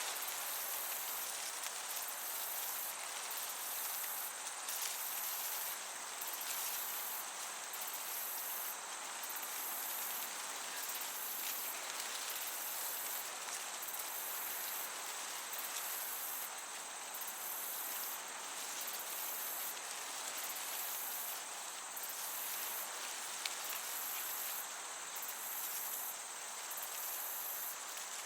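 Field crickets chirping in a high, continuous trill that breaks off briefly about once a second, over the steady hiss of a gentle breeze through a summer meadow.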